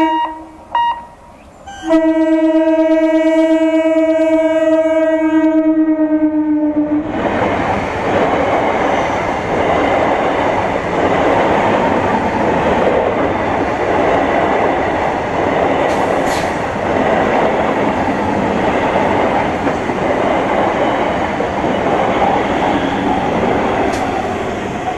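Stainless-steel EMU local train sounding its electric horn: a blast that stops just after the start, a short toot, then a long blast of about five seconds that dips slightly in pitch at its end. The train then runs past with a loud, steady rumble of wheels on rail and a single sharp clank about halfway through.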